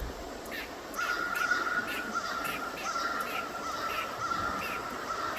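A bird calling outdoors: a steady run of short, repeated notes at one pitch, starting about a second in and continuing.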